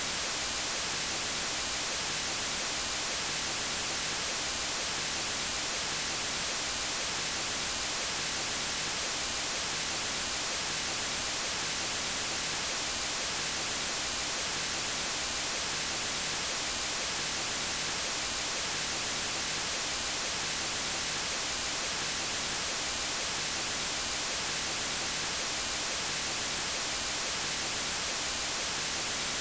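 Steady white noise: an even hiss with no change, strongest in the treble.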